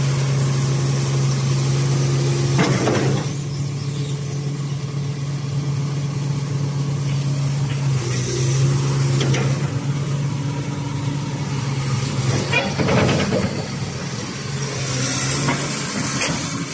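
Komatsu PC450 excavator's diesel engine running, dropping in level about three seconds in and picking up again near eight seconds, with a few short knocks.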